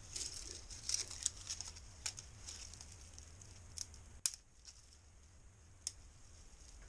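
Dry kindling crackling for a wood stove fire: a close run of crinkling, crackling snaps for the first couple of seconds, then three separate sharp snaps.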